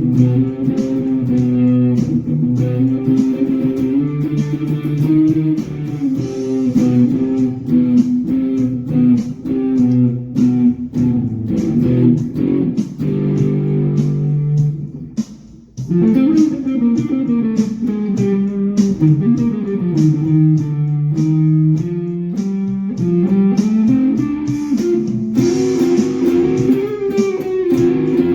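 Guitar music: a plucked guitar playing a melody over lower notes, with a short break about halfway through before the playing resumes.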